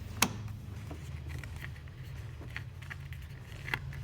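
Light metallic clicks from tightening a car battery's positive terminal clamp with a socket wrench: one sharp click about a quarter second in, then a few faint scattered clicks, over a low steady hum.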